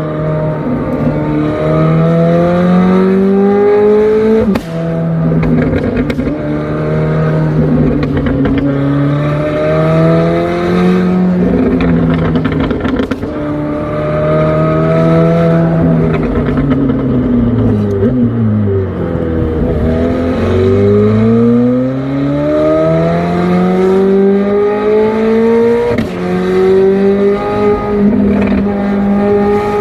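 McLaren 765LT's twin-turbo V8 pulling hard through the gears, rising in pitch and dropping back at each upshift, with a sharp crack at a couple of the shifts. About two-thirds of the way through it slows, its pitch falling through downshifts, then climbs again under full throttle.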